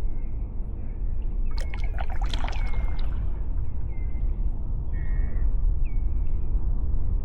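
Kayak paddle splashing in the water for about a second and a half, from about one and a half seconds in, over a steady low wind rumble on the microphone. A short, high, falling chirp repeats about every half second.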